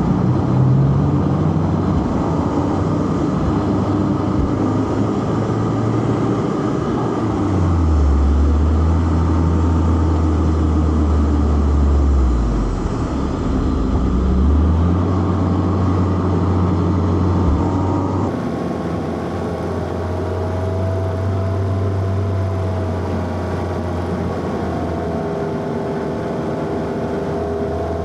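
Four-cylinder car engine driven hard on a mountain road with a manual gearbox, revs rising and falling with throttle and gear changes, over road and wind noise. About two-thirds of the way through the sound changes abruptly, as at a cut.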